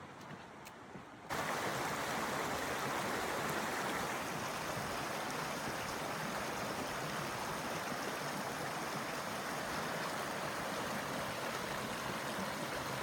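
Steady rush of a creek's running water, cutting in abruptly about a second in.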